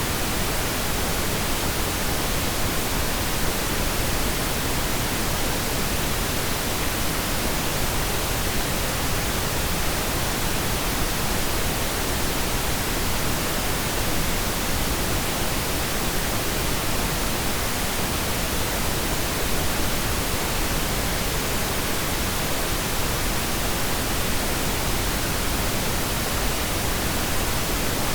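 Steady, unchanging pink noise: an even hiss with no breaks or events.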